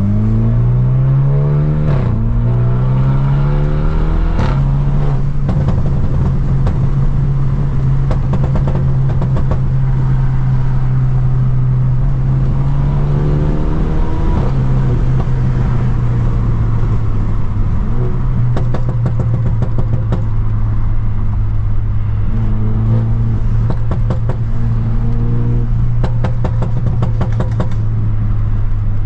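Straight-piped, tuned BMW F30 328i's turbocharged four-cylinder pulling hard through two quick upshifts, the engine note climbing, dropping and climbing again. It then drones steadily at cruise, with a step down in pitch about halfway and bursts of exhaust crackles and pops off throttle several times.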